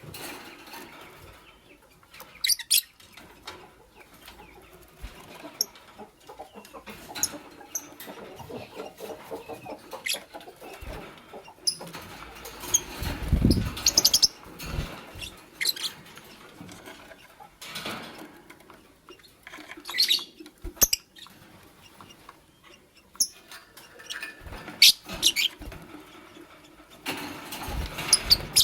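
Fischer's lovebirds giving short, sharp, high chirps every few seconds, mixed with rustling and wing flapping. The flapping is loudest in a burst about halfway through.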